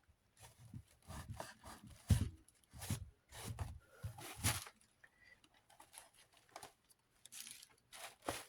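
Paper towel scrubbed over the hard plastic of a desk fan's base, in short irregular rubbing strokes with a lull in the middle.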